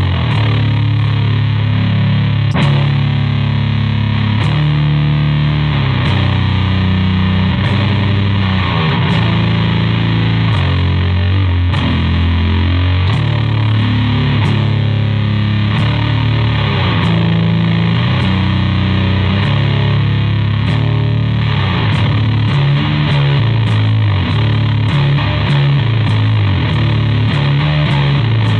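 Electric bass played through a homemade Hizumitas-style (Big Muff Elk) transistor fuzz pedal into an Orange Terror Bass amp with its own gain off and an Ampeg SVT 15E speaker: a heavily fuzzed riff of sustained low notes, changing pitch every second or so.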